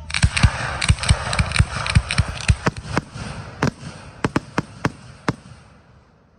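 Fireworks going off in a rapid run of sharp bangs over continuous crackling. The bangs come several a second at first, then space out and stop about five and a half seconds in as the crackle fades.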